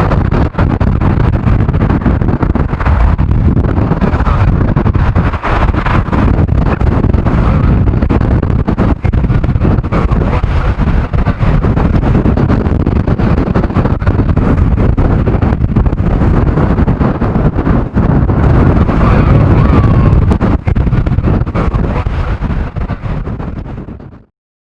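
Storm-force wind buffeting the microphone with a loud, gusting rumble, over the running jet engines of a Boeing 737. The sound cuts off suddenly near the end.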